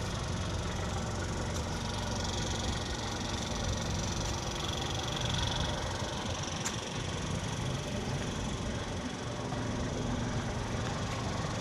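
Steady low rumble with a light hiss over it: outdoor background noise with no single clear source.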